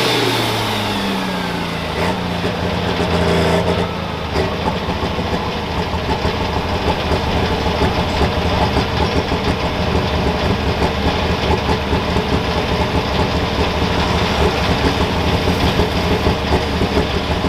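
Super stock pulling tractor's engine winding down after a full-power run, its pitch falling over the first few seconds, then running at a steady, pulsing idle.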